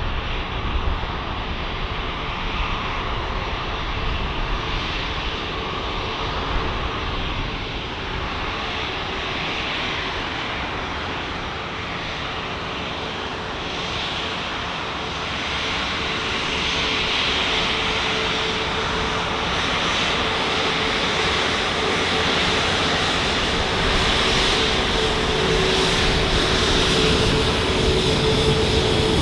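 Jet engines of an Airbus A330-900, Rolls-Royce Trent 7000s, running with a steady noise and a held tone that grow gradually louder.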